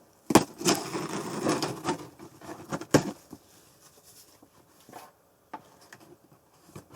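A blade cutting through packing tape on a cardboard box: a sharp click, then about a second and a half of scraping and rustling, another click near three seconds, then quieter cardboard handling.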